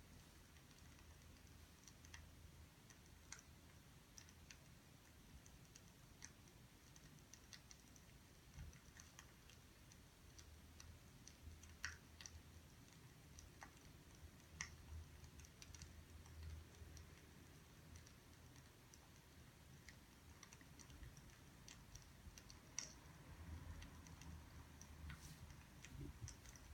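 Faint, sparse crackles and small pops of burning firewood, irregular and scattered, over a quiet low rumble.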